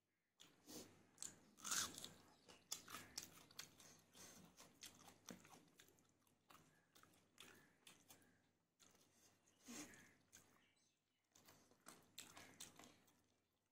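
Close-up chewing of a handful of rice with crisp fried food: a long run of crunching bites that stops briefly twice in the second half, then goes on.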